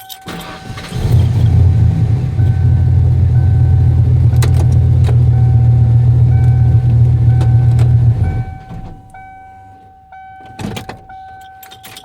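A car engine runs loudly and steadily for about seven seconds, then stops abruptly, typical of the stall that comes when it is put in gear with pin 50 connected. A dashboard warning chime dings throughout, and there are a few clicks near the end.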